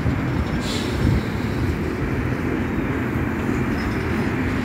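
Passenger train drawing away along the track, heard as a low, steady rumble of wheels on rail and diesel locomotives. There is a brief high hiss or squeal about a second in.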